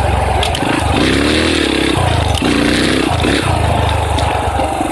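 Dirt bike engine revving as it is ridden, its pitch climbing and dropping several times with the throttle.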